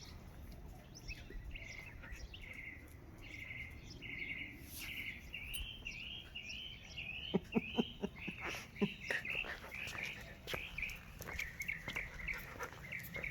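Small birds chirping over and over in quick, repeated calls. A run of sharp clicks and cracks comes about seven to nine seconds in.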